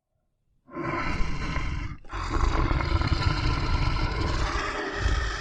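Big cat roaring in two long, rough calls, the first starting about a second in and breaking off briefly before the second.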